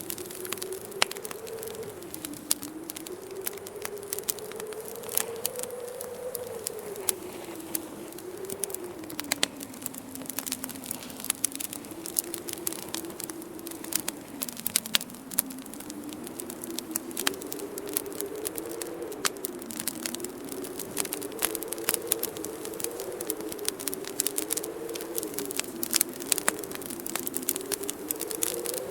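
Wood fire crackling in a fireplace, logs burning with frequent sharp snaps and pops, over a low howling wind that slowly rises and falls in pitch.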